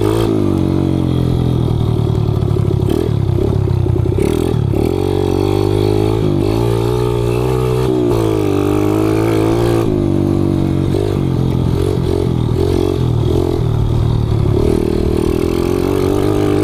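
Kawasaki KLX110 pit bike's single-cylinder four-stroke engine, bored out to 165 cc and breathing through an FMF exhaust, revving up and down over and over as it is ridden hard.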